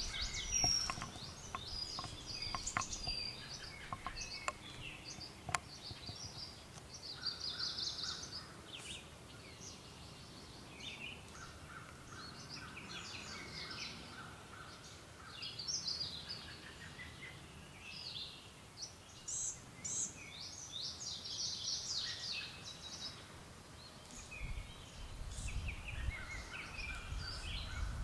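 Several songbirds calling in the tree canopy: many short, high chirps and trills, with a lower repeated note now and then and a few sharp clicks in the first few seconds.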